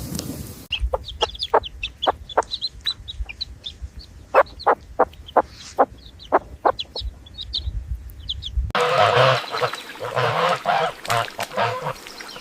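Domestic fowl calling, in two edited clips. First comes a long run of short, sharp clucking calls at irregular spacing. After an abrupt cut about three-quarters of the way through, a denser flurry of rougher, harsher calls follows.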